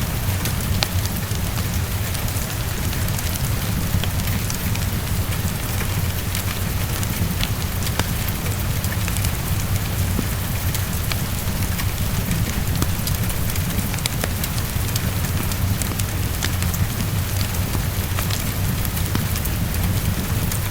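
Heavy rain falling steadily, mixed with a fireplace crackling as scattered sharp clicks, over a steady low rumble.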